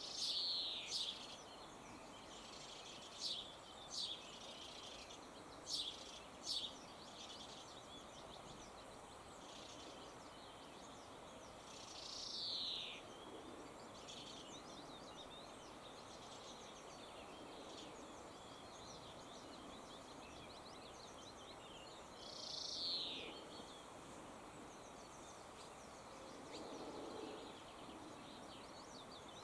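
Faint birdsong: several quick high chirps in the first seven seconds, then two longer falling notes about twelve and twenty-three seconds in, over a soft steady hiss.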